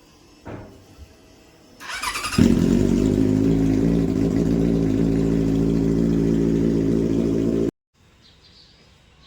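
Benelli 600i's inline-four engine turned over on the electric starter, catching after a brief crank and settling into a steady idle. About five seconds later it cuts off abruptly.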